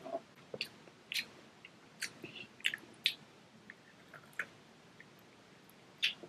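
Close-up mouth sounds of a child chewing king crab leg meat: irregular sharp smacks and clicks of the lips and mouth.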